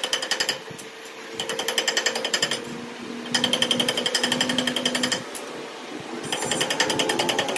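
A hammering power tool, such as an impact wrench or air hammer, runs in four bursts of rapid blows at about ten a second, with short pauses between them.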